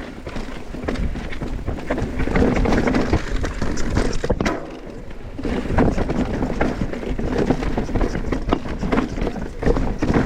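Mountain bike ridden fast down a rocky trail: tyres rolling over rock and the bike rattling with many small knocks. A sharp knock comes about four and a half seconds in, followed by a quieter second before the rattle picks up again.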